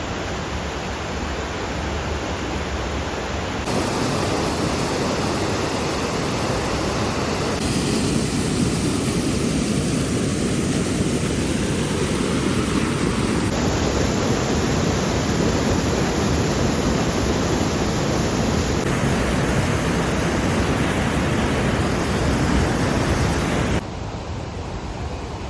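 Rushing water of small cascading waterfalls on the Deschutes River, a loud, steady rush. Several clips are joined, so the sound changes abruptly in level and tone every few seconds and drops a little near the end.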